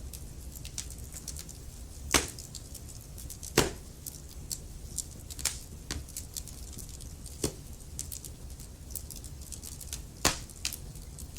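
Burning logs crackling in a fireplace: a steady stream of small ticks and snaps over a low rumble, with louder pops about two seconds in, at about three and a half seconds, and again near the end.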